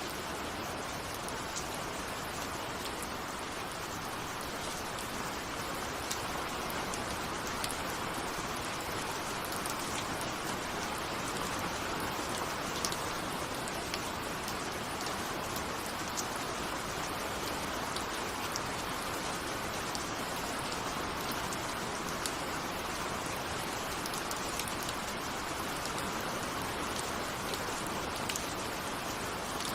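Steady rain with many small raindrop ticks scattered through it, pattering on a window.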